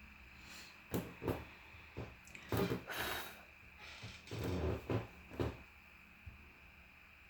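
A few sharp knocks and clicks with two short stretches of rustling: objects being handled and set down on a hard surface.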